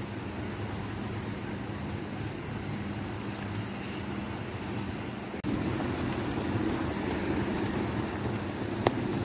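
Steady rain falling on wet pavement, a continuous even hiss. About five seconds in it jumps abruptly to a louder, heavier stretch of rain, with a sharp tick near the end.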